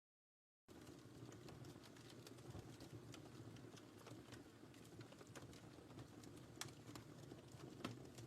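Wood fire crackling in a fireplace: a soft steady low rumble with scattered sharp crackles and pops. It cuts in after a brief moment of dead silence at the start.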